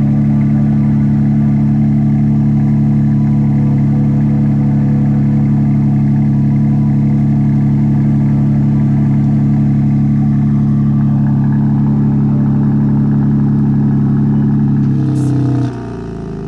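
BMW M3's S58 twin-turbo inline-six idling steadily through its stock exhaust. About a second before the end the note drops in pitch and gets clearly quieter, as the exhaust valves close.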